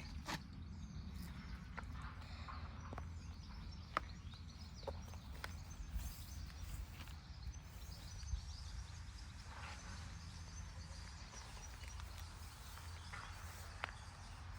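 Quiet outdoor ambience: a steady low rumble with faint bird chirps and a few scattered light clicks.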